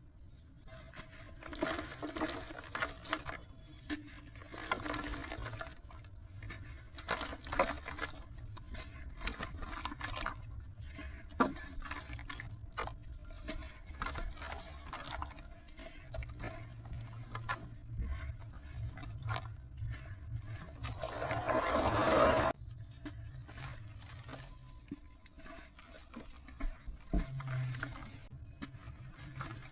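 A brittle material crumbling and crunching, with many irregular crackles and small scrapes. It swells louder about three quarters of the way through, then cuts off suddenly.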